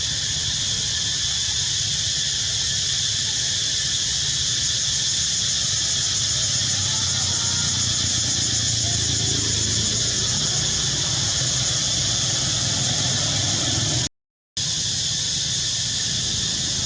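Steady high-pitched outdoor drone over a low rumble, with a few faint short squeaky calls about seven seconds in. The sound cuts out completely for a moment near the end.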